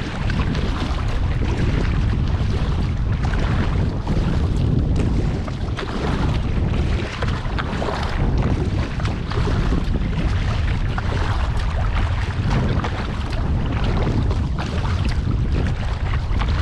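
Strong wind buffeting the microphone with a heavy low rumble, over water splashing and lapping around an inflatable kayak on the move, swelling every couple of seconds.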